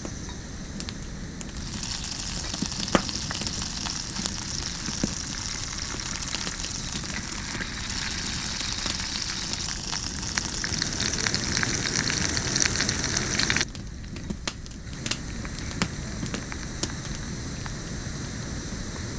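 Food sizzling over a campfire with a dense, steady hiss, which cuts off suddenly about thirteen and a half seconds in. Scattered sharp crackles and pops of the fire follow.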